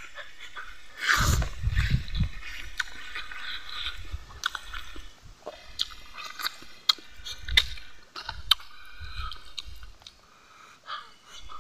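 Close-up sounds of a man eating rice and fish curry with his fingers: wet chewing and lip smacks with many sharp clicks, loudest about a second in.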